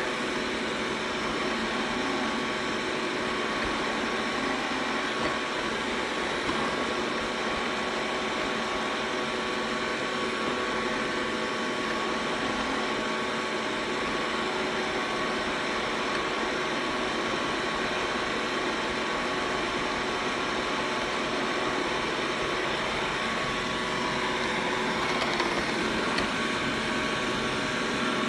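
Xiaomi robot vacuum running steadily, its motor and suction fan giving a constant whir with a few steady tones.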